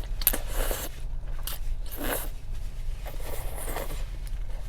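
A person chewing and crunching food close to the microphone, four or five bites spread across a few seconds, over a steady low hum.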